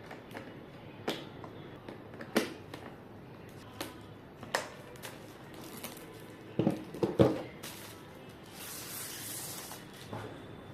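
Hard plastic parts being handled and fitted together: scattered clicks and taps, a quick run of louder knocks about two-thirds of the way through, then a short rustling hiss.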